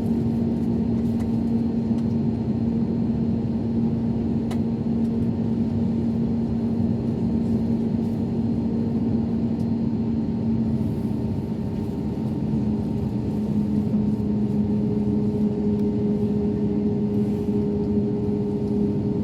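Airbus A321neo jet engines running, a steady drone with a low hum whose pitch dips slightly about two-thirds of the way through.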